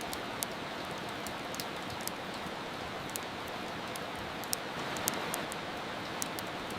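Steady rain hiss, with irregular sharp pops and crackles of a wood fire burning in a fireplace, about one or two a second.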